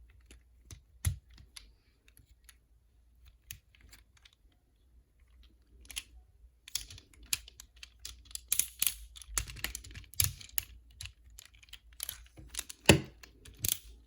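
Hard plastic clicking and knocking as the joints and parts of a Transformers Optimus Prime action figure are moved and snapped into place. A few scattered clicks at first, then a dense run of clicks from about halfway, with one louder knock near the end.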